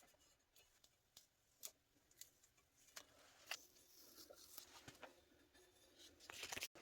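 Near silence in a small room, broken by scattered faint clicks and taps, with a faint steady hum from about halfway; the sound cuts out abruptly near the end.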